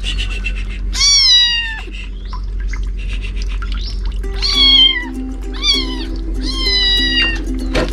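A kitten meowing: about four high, drawn-out meows, each falling in pitch, the first about a second in and three more close together after the middle. Background music plays underneath.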